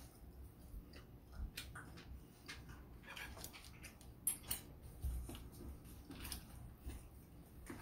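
Close-up eating sounds: a person chewing grilled pork barbecue, with irregular mouth clicks and smacks. Two sharper clicks come a little past four seconds in.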